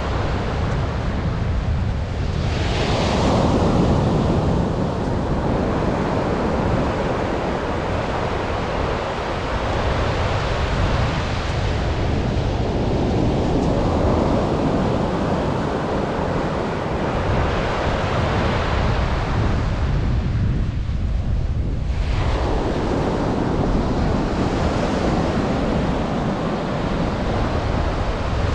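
Atlantic surf breaking and washing up the beach in repeated surges, with a steady low rumble of wind buffeting the microphone.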